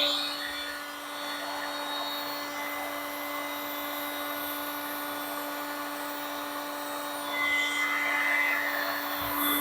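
A small electric motor running steadily with a constant whine, a little louder for a couple of seconds near the end.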